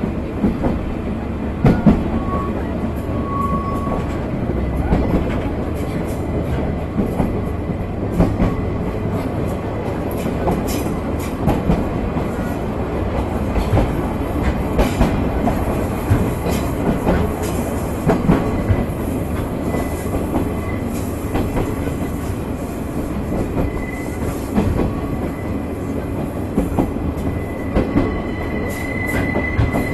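Sagano Scenic Railway tourist train running, heard from inside its open-sided car: a steady rumble of wheels on track with irregular clicks and knocks, and a faint thin wheel squeal that grows louder near the end.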